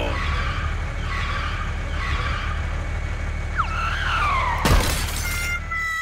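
Added cartoon sound effects for a toy tractor: a steady low engine rumble, then a falling whistle and a loud crash about three-quarters of the way through.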